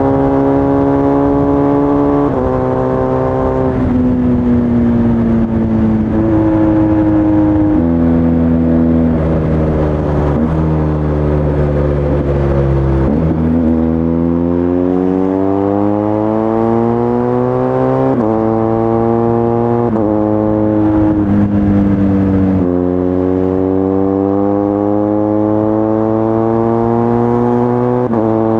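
BMW R1250 GS Adventure's boxer-twin engine breathing through an Akrapovič titanium slip-on exhaust while being ridden. The engine note jumps in steps at several gear changes, sinks for a few seconds as the bike slows, climbs steadily under acceleration from about halfway, then shifts through more gears.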